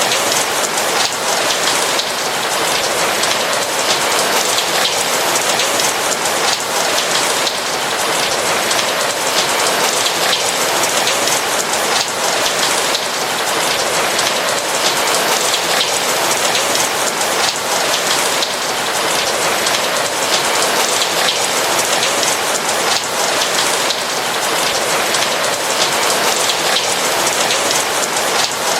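Steady rain: a dense, even patter of many drops, with the fine ticks of single drops landing.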